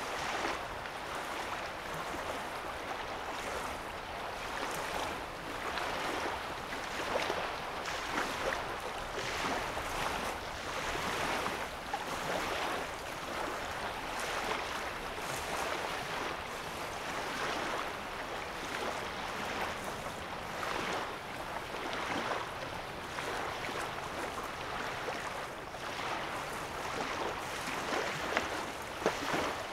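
Small waves lapping against a lake shoreline: a continuous, uneven wash of water with many brief, irregular splashes.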